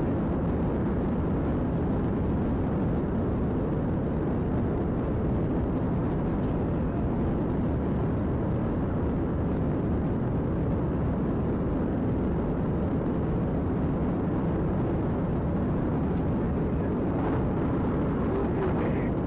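Steady driving noise of a car at speed: engine, tyre and wind noise, even and unchanging throughout.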